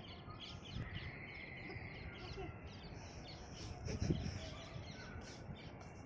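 Birds chirping and calling in the background, with a low thump about four seconds in.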